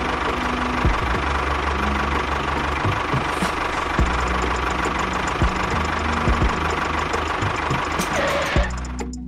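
An engine running steadily with a knocking rattle, which cuts off shortly before the end.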